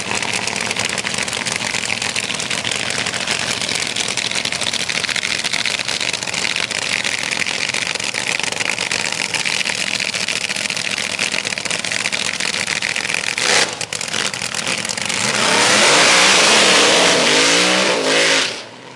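Front-engine drag cars' engines running loudly. Late on, one engine revs up louder with its pitch rising for about three seconds, then drops off sharply just before the end.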